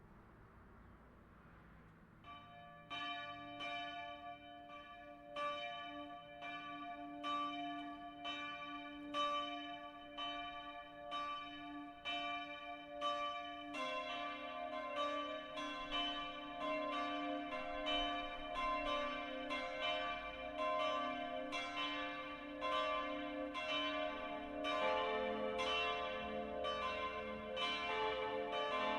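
The church's five bronze bells, cast in 1964 by Friedrich Wilhelm Schilling (tuned e', g', a', c'', d''), start their full peal. A couple of seconds in, bell strikes begin ringing out in a steady rhythm. More bells join around the middle and again near the end, thickening and deepening the sound as the peal builds.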